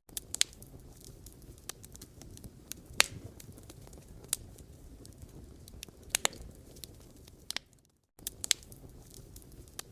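Wood fire crackling in a fireplace: sharp, irregular pops and snaps over a low, steady rumble of flames. The sound drops out to silence for a moment about eight seconds in.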